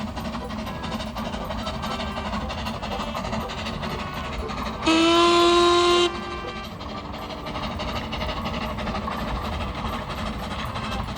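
Narrow-gauge steam locomotive running, with a single whistle blast about five seconds in that lasts just over a second and stands out as the loudest sound.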